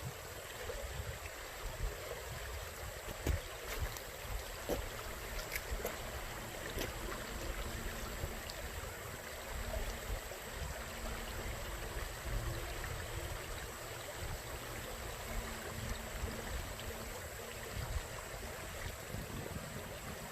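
Water flowing steadily in a small irrigation ditch, under a low uneven rumble, with a few short clicks in the first several seconds.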